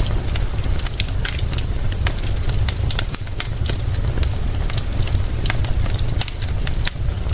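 Wood fire crackling, with frequent sharp pops scattered irregularly, over a steady hiss and a constant low rumble.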